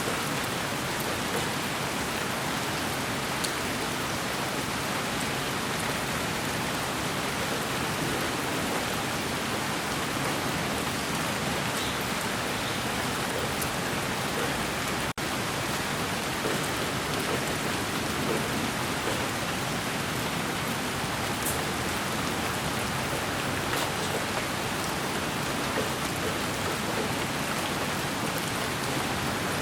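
Steady, even rain-like hiss played as sleep white noise, with faint scattered ticks like drops. It drops out for an instant about halfway through.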